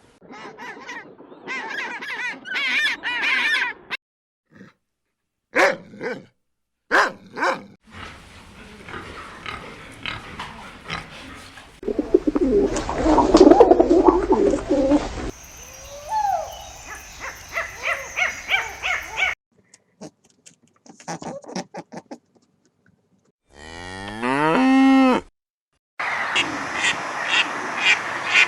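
A string of short farm-animal sound clips with silent gaps between them, including cattle mooing: one long call slides in pitch about 24 seconds in.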